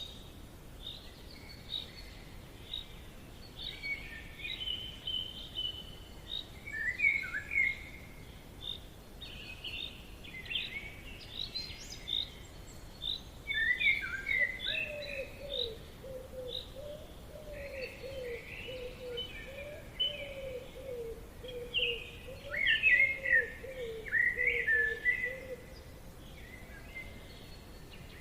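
Several birds singing and calling at once, a dense chorus of short chirps and trills over a faint steady hiss of forest background. A lower, quickly repeated call joins in about halfway through and stops a few seconds before the end.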